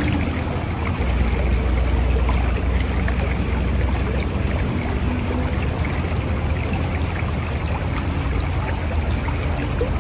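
Mountain river rushing and gurgling in a steady, unbroken stream, with a deep low rumble beneath the splashing.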